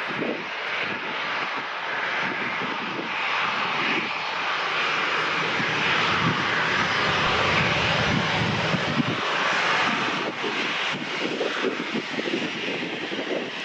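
Jet engines of a Boeing 737-800, its CFM56 turbofans, running with a steady rushing whine.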